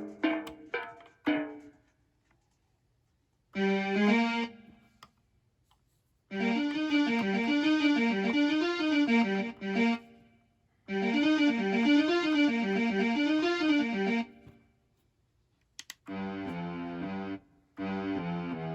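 Akai MPK Mini Play MK3 mini keyboard playing its built-in preset sounds. Short melodic phrases are separated by pauses, and one phrase is played twice. Near the end it switches to a different tone with held notes, with guitar-like, effected timbres.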